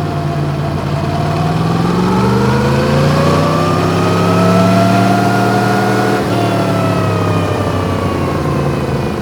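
Yamaha MT-10's crossplane inline-four engine, heard from on the motorcycle while riding. Its pitch rises steadily for about four seconds under throttle, then falls off about six seconds in.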